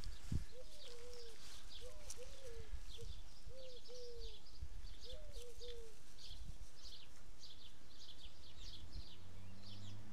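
Birds calling: a low call repeated in groups of two or three for the first half, and higher chirping throughout. There is a brief thump just after the start, and a low hum comes in near the end.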